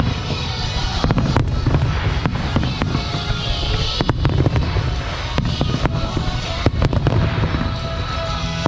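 Fireworks bursting in quick succession: many sharp bangs over a continuous low rumble, with music playing alongside.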